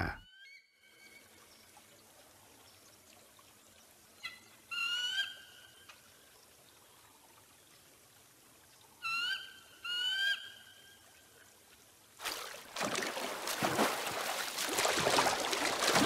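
Two pairs of short bird calls, each a quick rising note followed by a held one, about five seconds apart over a faint background. About twelve seconds in, the steady rush of a fast-flowing river comes in and becomes the loudest sound.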